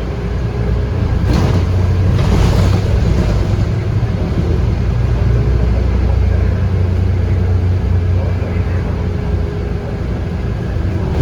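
Scania K230UB bus's 8.9-litre five-cylinder diesel engine running while under way, a steady low drone. It grows louder about a second in and eases off near the end, with a brief hiss around two seconds in.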